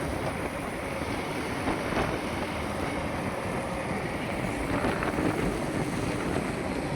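Wind buffeting the microphone outdoors: a steady, noisy rumble with no distinct events.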